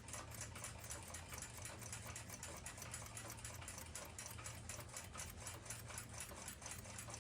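Faint, fast, even ticking of a clock running, about five ticks a second, over a low steady hum.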